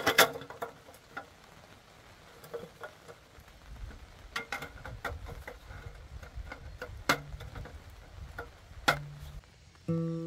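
Scattered small clicks and knocks, like objects being handled and set down, loudest just at the start and twice later on. Acoustic guitar music starts near the end.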